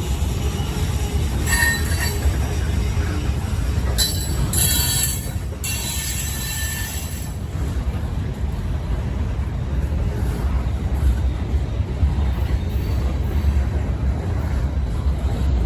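Freight train cars rolling past with a steady heavy rumble, wheels squealing in short bursts during the first half, then the rumble alone.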